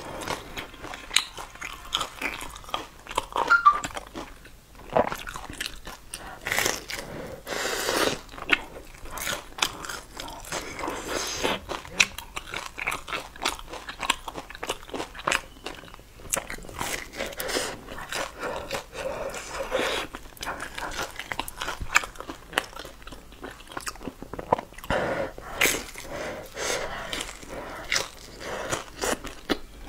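Close-miked chewing and biting into a pan-fried bun with a browned, crisp crust: wet mouth sounds, crunches and lip smacks, repeated throughout.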